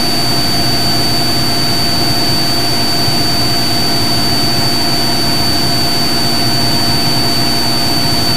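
Cessna 182 Skylane's piston engine and propeller droning steadily in flight, heard inside the cockpit, with a thin steady high whine over the drone.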